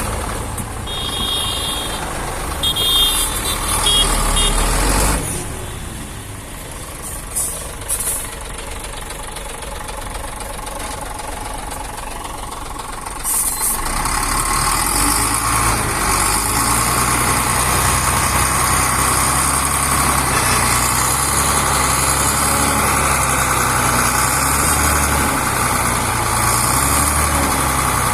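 Heavy truck engine running, with the sound changing a few times; from about halfway it settles into a steady, louder engine drone.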